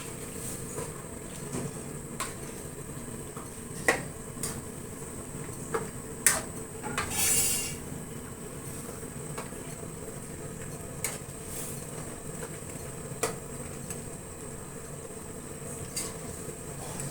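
A metal spoon stirring a cooking pot, with scattered sharp clinks against the rim over a steady background noise, and a brief hiss about seven seconds in.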